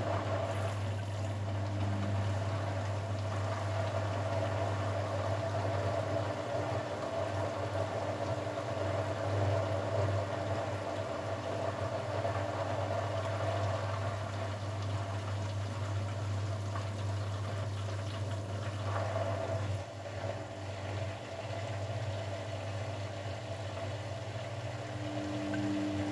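Grundig washing machine's pump cutting in suddenly and running with a steady hum and rushing water. The level drops a little about twenty seconds in.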